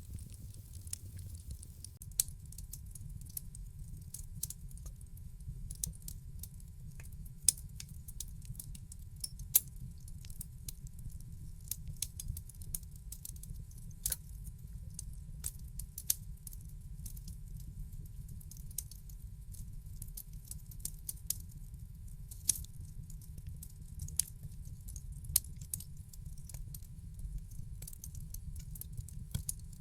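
Wood fire crackling in a fireplace: many sharp irregular pops and snaps over a steady low rumble of the flames.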